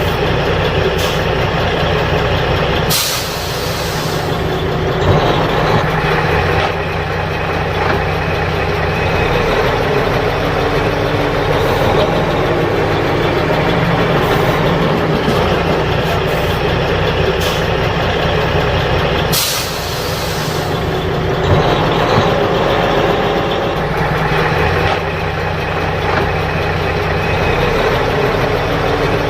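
Loaded dump truck's diesel engine running steadily as it drives, with two short loud hisses, one about 3 seconds in and one near the middle.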